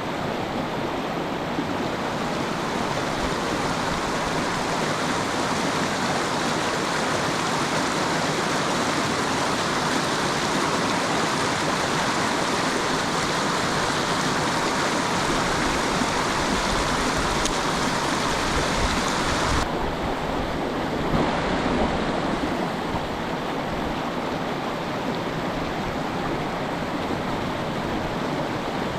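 Steady rushing of river water, an even rush with no break, its upper hiss changing abruptly about twenty seconds in.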